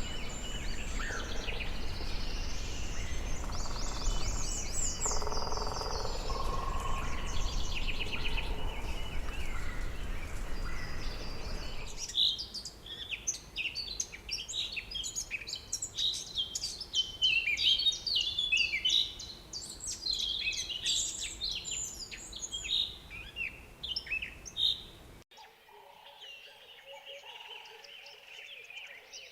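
Rainforest birds calling and chirping in dense overlapping bursts of short high notes. For the first twelve seconds the calls sit over a low rumble, and about four seconds before the end the sound drops suddenly to a quieter stretch with a few steadier whistled notes.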